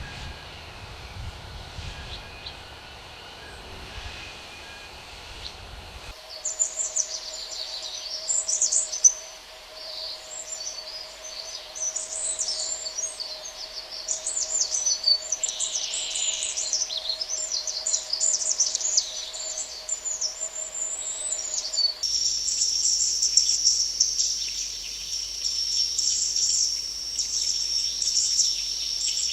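Rainforest ambience in three abruptly joined sections: first a low rumbling background, then from about six seconds in many birds chirping in quick high notes, then in the last seven seconds a steady high insect drone with faint bird calls beneath.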